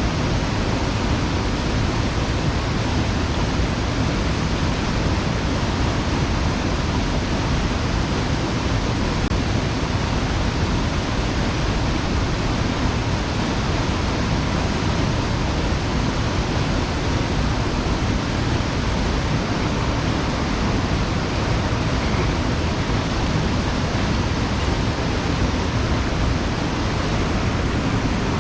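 A mountain stream rushing steadily over rocks, running high after rain, a loud, even rush of water with no pauses.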